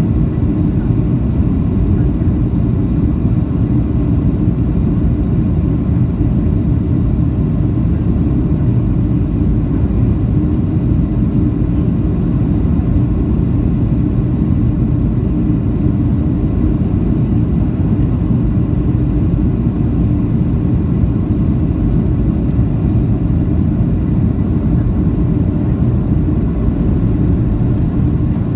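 Steady low rumble of a Boeing 737-800 in flight, engine and airflow noise heard from inside the passenger cabin.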